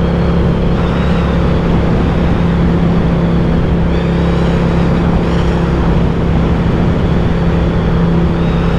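Ducati Diavel 1260's V-twin engine running at a steady cruise, with a constant rushing noise over it.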